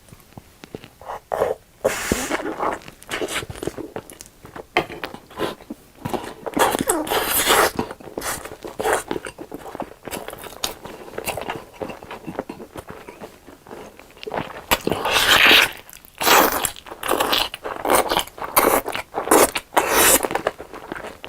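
Close-miked eating: crunchy bites and chewing in irregular bursts, loudest about three-quarters through.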